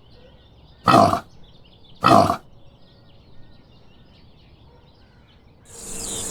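A domestic pig grunting twice, about a second apart.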